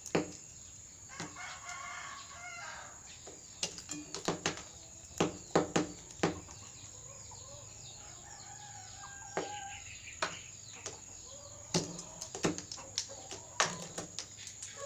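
A rooster pecking at tortilla chips, its beak striking and cracking them in quick clusters of sharp clicks. It gives a rooster's call about a second in and a brief cluck near the middle.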